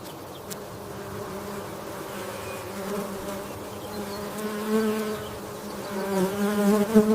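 Honeybees buzzing: a steady, wavering hum of many wings that swells louder about five seconds in and again near the end.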